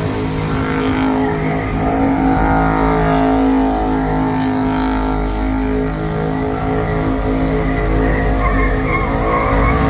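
Car engine held at high, steady revs while the tyres spin and squeal in a burnout or donut. A wavering tyre squeal comes up more strongly near the end.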